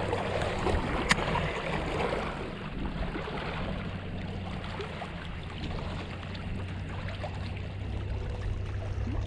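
Steady low drone of a distant motorboat engine carrying across the water, with one sharp click about a second in.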